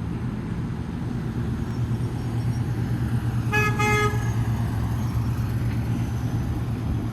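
1969 Chevrolet truck's engine idling steadily, with two short beeps of the truck's horn about three and a half seconds in.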